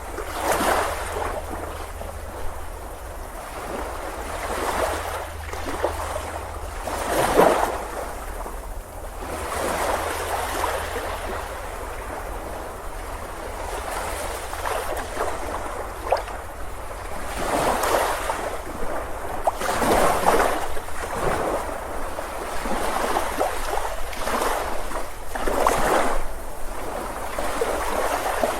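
Ocean surf: waves breaking and washing up a beach one after another, each a swell of rushing noise that rises and falls every few seconds, over a steady low rumble.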